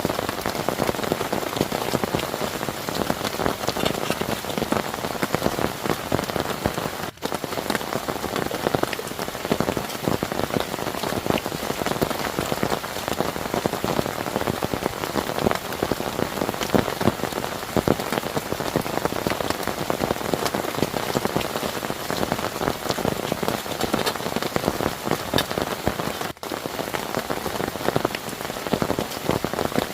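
Heavy rain falling steadily, a dense patter of drops striking a surface, with two momentary breaks: about seven seconds in and again near the end.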